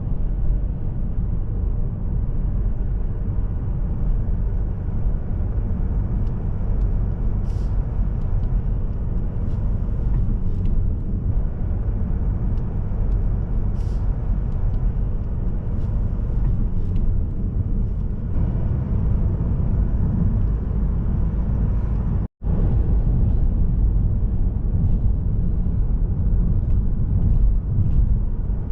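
Steady low rumble of a car driving along the road, tyre and engine noise from a Mazda3 with a 1.8 diesel engine, picked up by a camera mounted in the car. The sound cuts out for an instant about three quarters of the way through.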